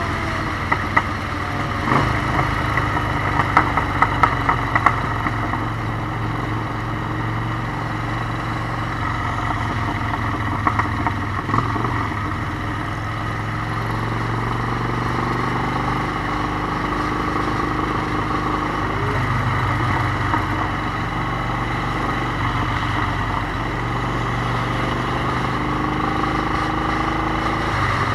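Motorcycle engine running steadily at riding speed under a constant rushing noise, with other engines' pitch rising and falling now and then. Clusters of sharp knocks come a few seconds in and again about eleven seconds in.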